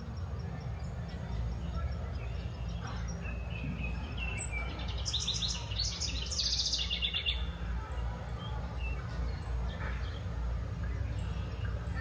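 A songbird singing, with one fast run of repeated high notes lasting about three seconds starting about four seconds in, and a few faint chirps around it. A steady low rumble sits underneath.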